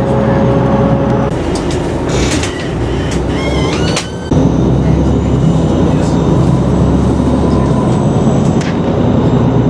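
A vehicle running with a steady low rumble, with brief high squeals a few seconds in and a short break just after four seconds.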